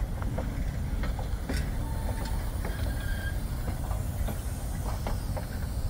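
Durango & Silverton narrow-gauge passenger cars and caboose rolling around a curve. A steady low rumble of wheels on rail, with irregular clicks and a couple of brief thin squeals from the wheels.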